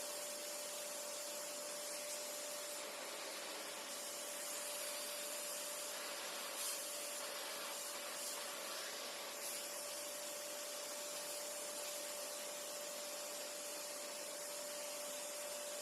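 Vacuum cleaner with a micro detailing attachment running steadily: a constant whine over a rush of air. The airflow hiss changes a few times in the middle.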